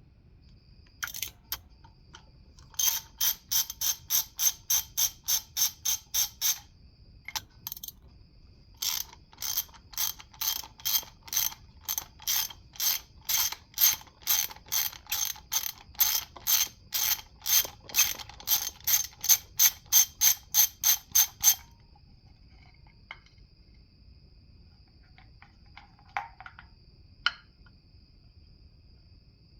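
Hand ratchet wrench clicking in two long runs, about three to four clicks a second, as fasteners are turned during an LS 5.3 V8 engine teardown.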